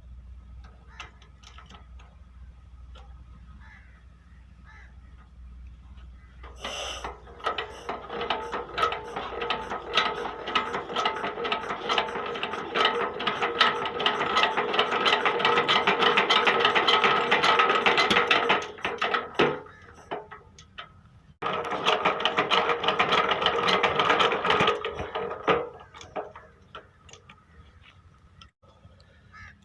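Petter diesel engine being cranked over, a fast gear-and-ratchet whirr that builds up from about seven seconds in, stops, then comes again for a few seconds after a short pause, without the engine catching. The engine is hard to start in the winter cold.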